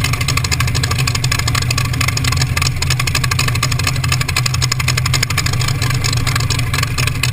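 T-bucket hot rod engine running steadily and loudly, with no change in pitch.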